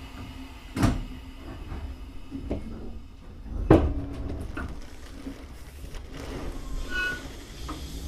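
Tobu 6050-series electric train running slowly, heard from behind the driver's cab: a low rumble with two sharp bangs about three seconds apart, the loose doors rattling in their frames.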